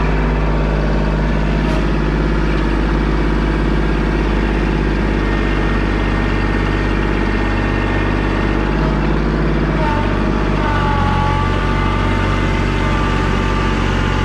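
An engine running steadily at a low speed, its note shifting about ten seconds in.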